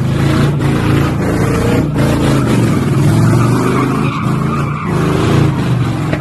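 Car engine running hard at steady high revs while its tyres skid and squeal on the pavement, a vehicle spinning its wheels at a street takeover.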